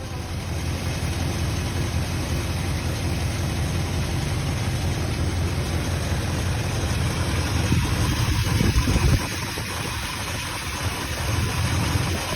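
A 1962 Buick Electra 225's V8 engine running at idle. It gets louder for a moment about eight to nine seconds in, then settles back.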